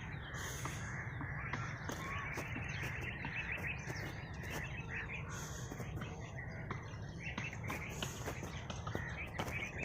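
Many small birds chirping and twittering at once, a dense run of short calls, over a steady low rumble.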